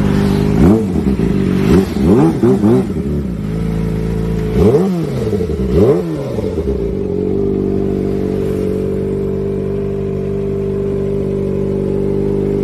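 Kawasaki ZX-25R's 249 cc inline-four engine, breathing through a Prospeed aftermarket exhaust, blipped sharply several times from idle, each rev rising and falling quickly. After about seven seconds it settles back to a steady idle.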